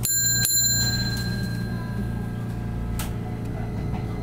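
Streetcar bell struck twice in quick succession, a bright ringing that fades within about a second, over a steady low hum. A single sharp click about three seconds in.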